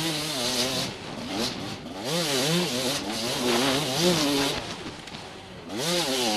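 TM Racing enduro motorcycle engine under hard riding, revving up and down again and again as the throttle opens and shuts. It drops quieter twice, about a second in and again near five seconds, before picking back up.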